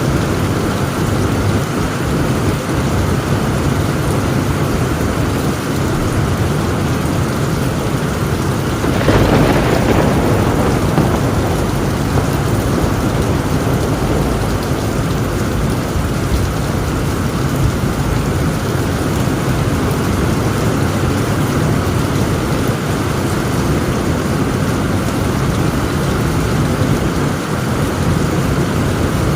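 Heavy rain drumming steadily on a tin roof, with a roll of thunder that swells up about a third of the way in.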